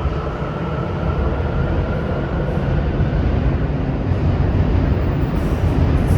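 Tokyu electric commuter train running, a steady rumble of wheels and running gear that slowly grows louder.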